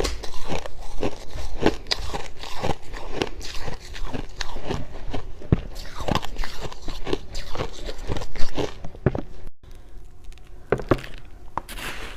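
Freezer frost being bitten and chewed close to the microphone: a rapid, irregular run of crisp, dry crunches that thins out near the end.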